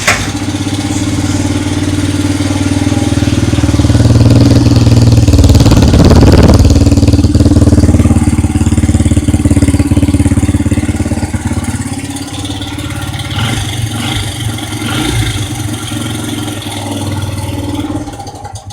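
Honda XR dirt bike's single-cylinder four-stroke engine running, loud from the start. It grows louder for several seconds around the middle, then settles back to a lower, steadier run before cutting off suddenly at the end.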